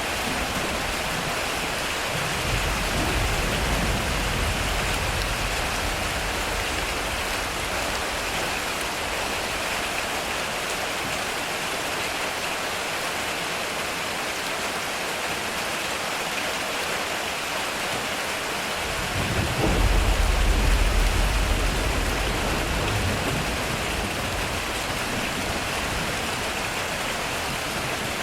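Heavy rain falling steadily on a metal roof, with two rolls of thunder: a low rumble a couple of seconds in, and a louder one about two-thirds of the way through that starts with a sharp crack and rumbles off over a few seconds.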